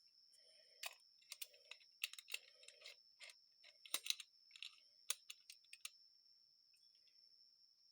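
Light, irregular clicks and taps of small metal carburetor parts and linkage being handled and fitted, bunched in the first six seconds and then dying away, over a faint steady high-pitched tone.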